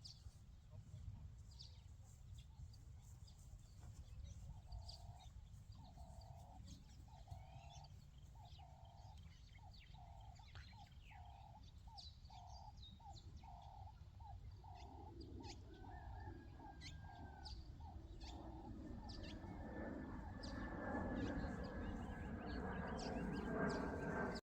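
Outdoor bird sounds over a low steady rumble: scattered short high chirps, and a bird giving a long series of repeated mid-pitched notes that come gradually faster. Toward the end a louder noise builds up, with a thin steady high tone running through it.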